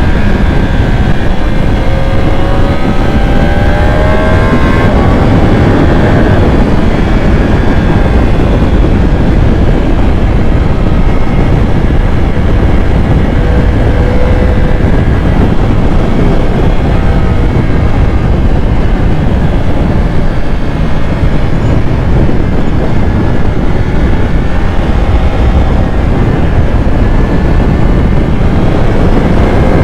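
Motorcycle engine running under way, with heavy wind noise on the microphone; the engine pitch climbs as it accelerates a couple of seconds in and again near the end.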